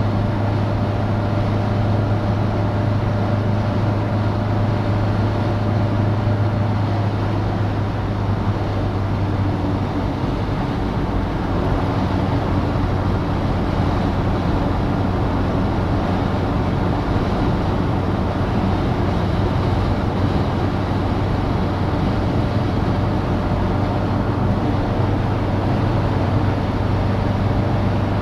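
Citroen DS on the move: its four-cylinder engine hums steadily over a constant wash of wind and road noise. The engine note changes briefly about ten seconds in.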